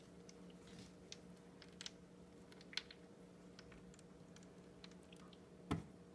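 Near silence: faint scattered clicks and taps over a steady low hum, with one louder thump near the end.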